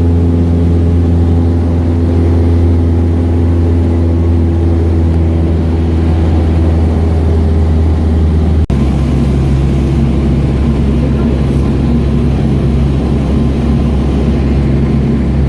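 Small airplane's piston engine and propeller droning steadily, heard from inside the cabin. About two-thirds of the way through, the sound drops out for a moment and comes back at a lower pitch.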